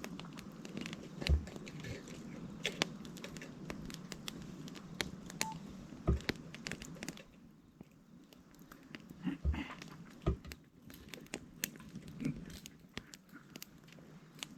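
Wood campfire crackling, with sharp irregular pops and a few dull knocks.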